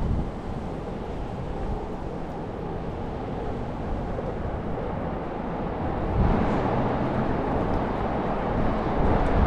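Wind rumbling and buffeting on the microphone over steady city street noise, swelling about six seconds in.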